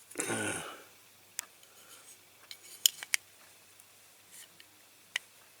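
A short metallic scrape, then a few sharp, scattered clicks of thin tin and diecast metal being worked apart by hand as a tabbed tin panel is eased off a toy truck body.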